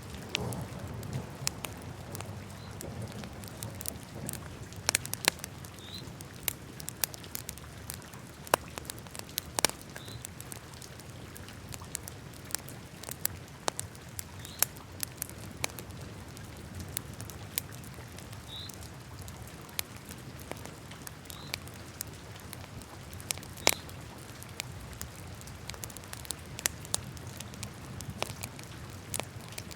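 Wood fire burning in a fireplace: a low steady rumble of flames with irregular sharp crackles and pops throughout, a handful louder than the rest, the loudest about two-thirds of the way in. A few faint, brief high squeaks come through between the pops.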